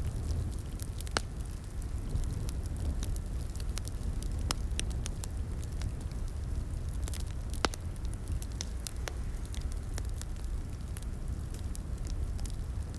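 Crackling wood fire in a fireplace: a steady low rumble of burning with irregular sharp pops and snaps, the loudest pop about seven and a half seconds in.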